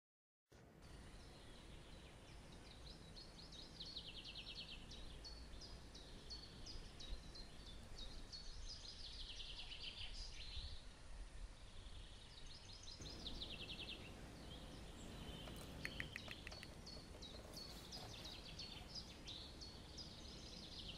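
Faint outdoor ambience of songbirds singing. Several phrases of high chirps and quick trills sound over a steady low background noise.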